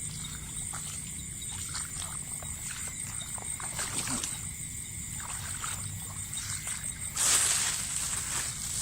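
Water splashing in one sudden loud burst about seven seconds in, after a stretch of small clicks and knocks, over a steady high insect trill.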